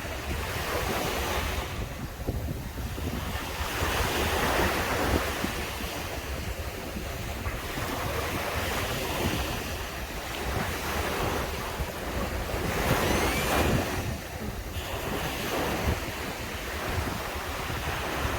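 Sea waves breaking and washing up a sandy beach, the surf swelling and fading every few seconds, with wind rumbling on the microphone.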